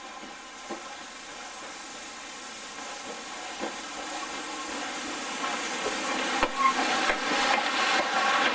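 A locomotive approaching and growing steadily louder, with a hiss and a run of sharp clicks and knocks in the second half.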